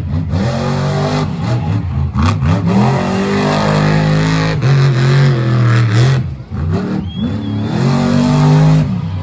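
Monster truck's supercharged V8 engine revving hard during a freestyle run. It blips a few times, then climbs and holds high revs. The throttle drops off briefly about six seconds in, and the engine revs back up again.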